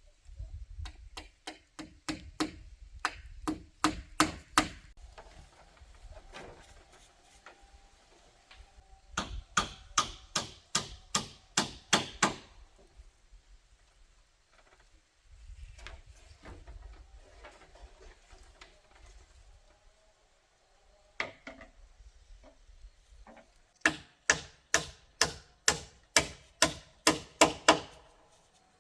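Repeated blows of a hand tool on wood, two or three a second, in three bursts with pauses of rustling between them.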